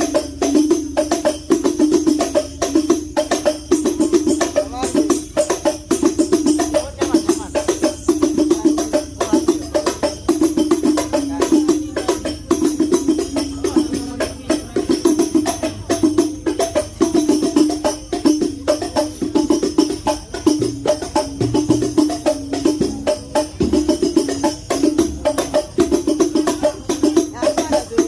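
Hadrah percussion ensemble of rebana frame drums and tambourine playing a steady, repeating rhythm without singing, as a sound check before a performance.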